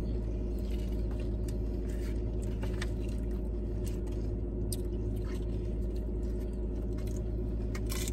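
Close-up chewing of crunchy tortilla-chip nachos, with scattered small crunches and clicks, over a steady low hum of the car running.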